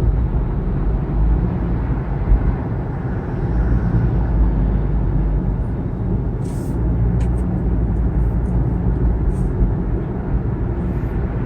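Steady low road and engine rumble inside the cabin of a Kia Morning small hatchback driving at speed, with a few faint clicks partway through.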